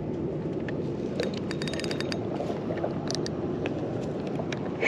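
Fishing reel being cranked to bring in a hooked jack crevalle: a steady grinding whir of the reel's gears, with a quick run of fine clicks about a second and a half in.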